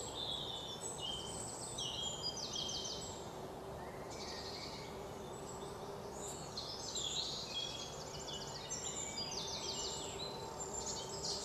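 Birds chirping, with many short high calls and quick trills, over a faint steady background.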